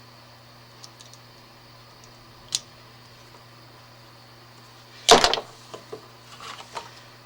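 A sharp click, then a louder clatter about five seconds in followed by a few small clicks, as of hand tools and small parts being handled during electrical wiring work. A steady low hum runs underneath.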